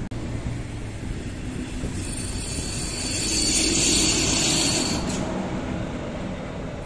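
Electric-locomotive-hauled double-deck regional train passing on the tracks below: a steady rumble of wheels on rail, swelling about four seconds in with a loud high hiss and a thin steady whine as the locomotive goes by, then easing off.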